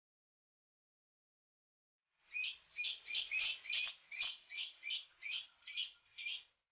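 A small bird chirping rapidly and repeatedly, about three short high chirps a second, starting about two seconds in after a stretch of silence.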